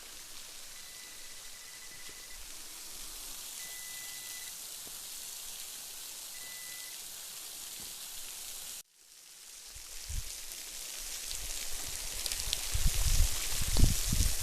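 Steady hiss of rushing water from a waterfall, with a faint high steady tone from the metal detector coming and going several times in the first half. The sound drops out abruptly about two-thirds through, then the water hiss returns with heavy low thumps, loudest near the end.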